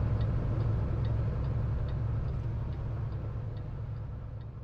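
Heavy-haul truck running down the road, a steady low rumble inside the cab, with a light ticking about twice a second. It fades out toward the end.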